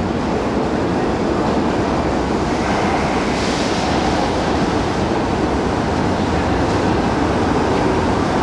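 Marunouchi Line subway train running on the rails: a steady rumble of wheel and rail noise that grows slightly louder.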